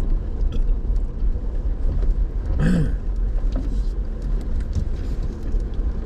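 Vehicle driving, with a steady low rumble of engine and tyres and scattered knocks and rattles. A brief pitched sound comes about two and a half seconds in.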